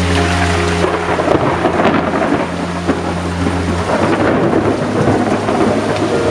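Heavy rain pouring down in a thunderstorm, a dense steady hiss and patter, with low thunder rumbling through the first half.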